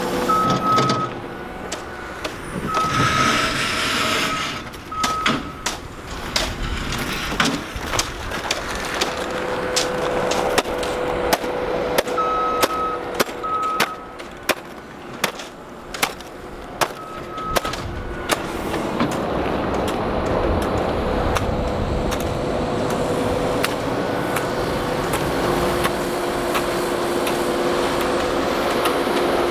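ASV RT-40 compact track loader's diesel engine running steadily while it scrapes salt-loosened ice off a sidewalk. There is a flurry of sharp clanks and knocks from about five seconds in to around eighteen seconds, and short high beeps sound several times.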